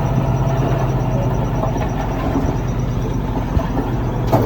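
Heavy diesel engine running steadily, with a brief sharp noise near the end.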